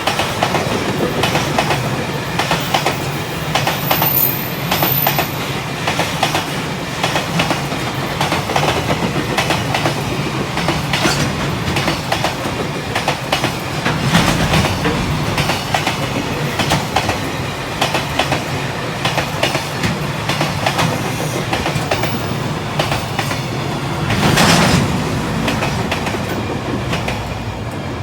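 Freight train passing, the wagon wheels clacking over rail joints in a continuous run of clicks, with a brief louder swell near the end.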